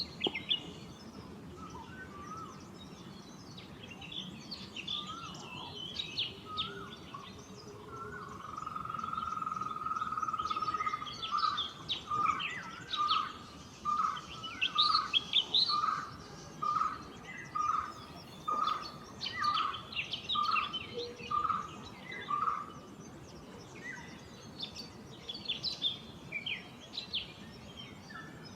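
Wild birds calling: varied short, high chirps and whistles throughout. About eight seconds in, a steady whistled note is held for a few seconds, followed by a run of a dozen evenly spaced lower notes, about one a second.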